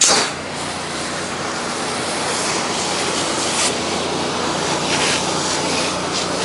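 Pressure washer spray wand hissing steadily as it sprays 10% sodium hypochlorite solution at low pressure onto wood decking, starting abruptly, over the steady hum of the pressure washer's engine.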